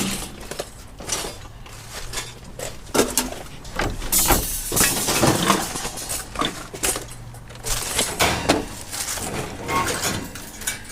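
Scrap metal pieces clanking and clinking as they are handled and moved about, in irregular knocks of different strengths.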